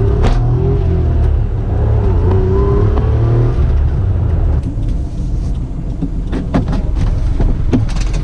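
Small car engine of a 1994 Suzuki Cappuccino being driven, its pitch rising and falling as it revs through the gears. About four and a half seconds in it drops to a lower, quieter run, with a few sharp clicks.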